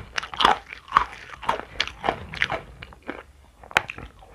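Close-up chewing of small crunchy food bits, a crisp crunch about three times a second, with one sharp crack near the end.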